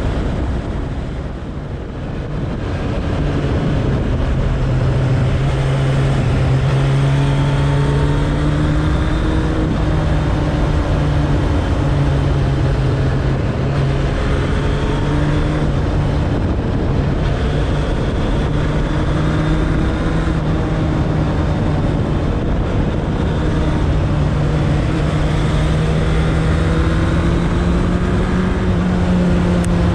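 Suzuki Bandit 1200's inline-four engine running under way, with a steady rush of wind and road noise. The engine note dips briefly about a second in, then holds at a steady cruise with small rises and falls in pitch.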